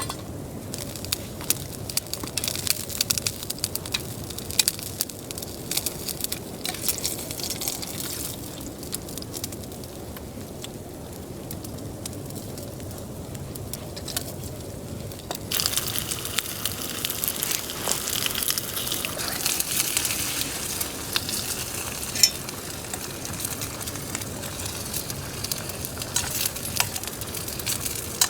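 Food sizzling and frying over a campfire, with frequent sharp crackles and pops. About halfway through the sizzle turns suddenly louder and brighter.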